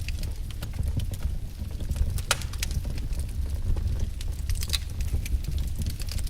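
Firewood crackling: irregular pops and snaps over a steady low rumble, with sharper pops about two seconds in and again near five seconds.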